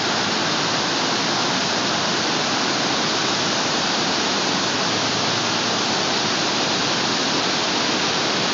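River waterfall rushing: a loud, steady roar of falling water.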